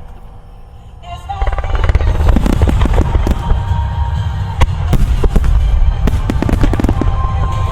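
A music starmine firework barrage: after a quieter first second, dense rapid bursts of aerial shells boom and crackle without pause, over music.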